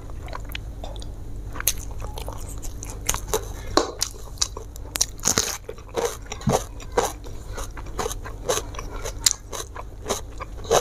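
A person chewing and biting food close to the microphone: a run of short, irregular crunches, about two or three a second.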